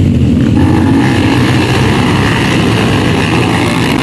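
Motocross dirt bike engines running loud and steady on the track, with a higher engine note joining about half a second in.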